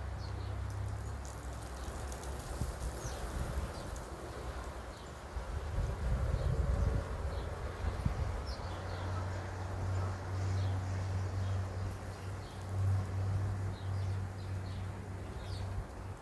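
Small wild birds giving short, faint chirps again and again, over a steady low hum.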